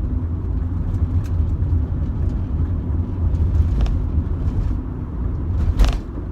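Steady low engine and road rumble heard from inside the cabin of a 2005 Rover 25 GSi on the move, with a couple of faint ticks and a short, louder knock near the end.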